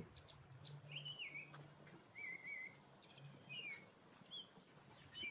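Faint bird calls: a few short, warbling chirps spaced out over several seconds, over a faint low hum.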